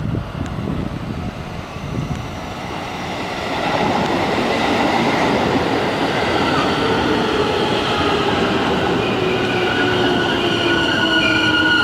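Electric commuter train pulling in at the station, getting louder from about four seconds in. Several whining tones slowly fall in pitch as it slows.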